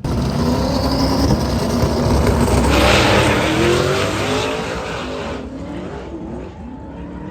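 Drag race car accelerating hard down the strip, its engine pitch climbing in repeated rises through the gears. It is loudest about three seconds in, then fades as the car pulls away.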